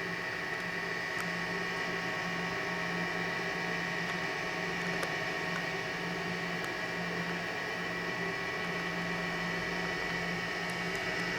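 Steady electrical hum and hiss with a fixed high whine, unchanging throughout, with a few faint ticks.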